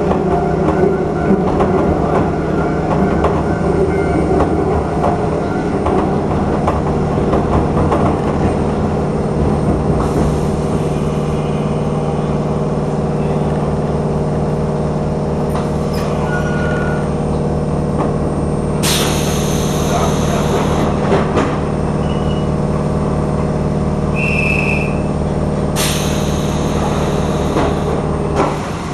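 Electric commuter train of the Iizaka Line running: a steady low motor hum with wheels clattering over the rail joints. Twice near the end a high hiss rises for about two seconds.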